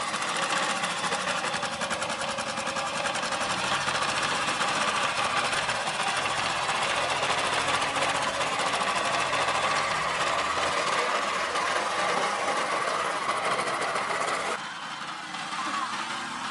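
Rebuilt diesel truck engine running with a rapid, even clatter, which turns quieter about two seconds before the end.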